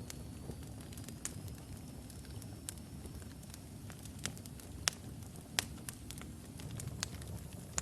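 Wood fire burning in a fireplace: a steady low rumble of flames with scattered sharp crackles and pops from the burning logs, a few louder pops in the second half.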